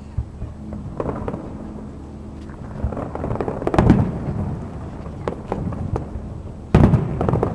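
Fireworks display: aerial shells going off in a series of booms, some followed by crackling, with the loudest burst about four seconds in and another sharp bang near the end.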